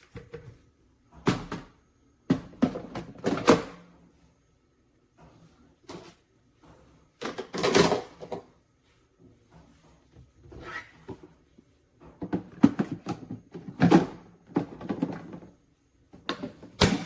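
Hamilton Beach dispensing coffee maker making irregular bursts of knocking and rattling noise, about eight of them, each lasting under a second to about a second.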